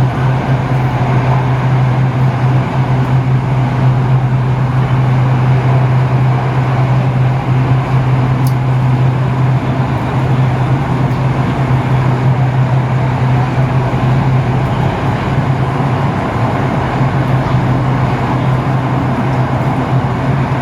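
Inside the car of an HCMC Metro Line 1 electric train running between stations: a steady rumble of the wheels and running gear, with a constant low hum underneath.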